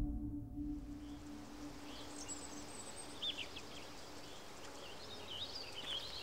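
Small birds chirping and trilling in quick short calls over faint outdoor ambience. A low held tone fades away during the first few seconds.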